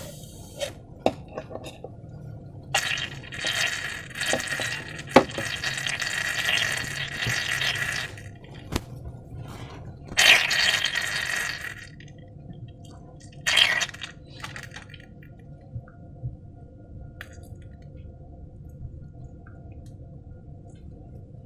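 Slime-making ingredients being handled: wet, liquid noise from pouring, mixing and squishing slime, with light clicks and clinks of containers. It comes in a few stretches, the longest lasting about five seconds, with quieter handling in between.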